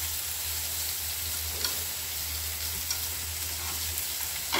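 Vegetables sizzling in hot oil in a frying pan as a stir-fry cooks, with a few light clicks along the way.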